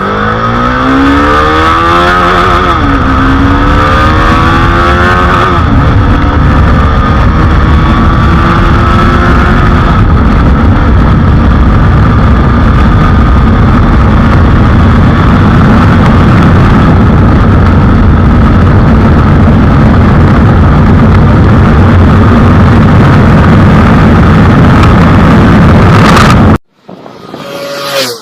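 TVS Apache RR 310's 312.2 cc single-cylinder engine accelerating hard through the gears on a top-speed run, its pitch climbing, dropping at each shift and climbing again. It then holds at high speed under a steady loud rush of wind and engine, which cuts off suddenly near the end.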